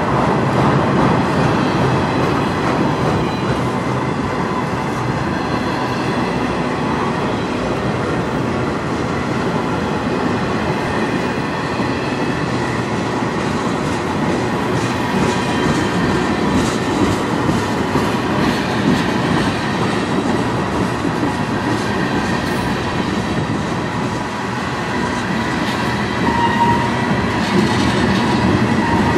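Freight cars of a long train rolling past close by: a steady rumble of steel wheels on the rails, with clicking as the wheels pass over rail joints.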